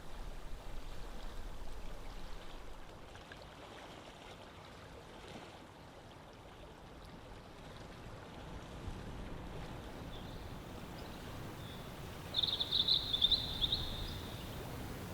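Outdoor ambience: a steady low rushing noise, like running water or wind. About twelve seconds in comes a short, high chirping call lasting just over a second.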